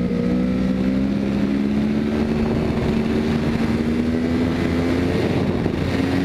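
Yamaha sportbike engine running steadily in second gear at about 45–50 mph, holding a nearly constant pitch, with wind rushing over the microphone.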